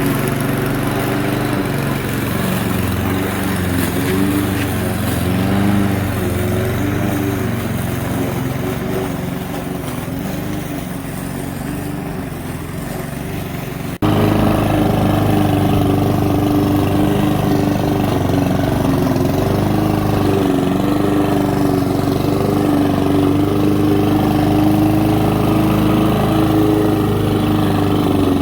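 A 99cc petrol rotary lawnmower engine running steadily. Its pitch wavers up and down in the first half. About halfway it jumps suddenly to a louder, steadier drone.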